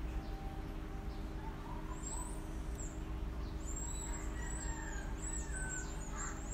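Birds chirping: a series of short, high, downward-sweeping calls from about two seconds in, over a steady low hum.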